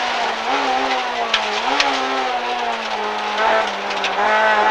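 Honda Civic Type R (EK9) rally car's four-cylinder engine heard from inside the cabin, running at high revs. Its pitch sags slowly, with two brief rises in the first couple of seconds.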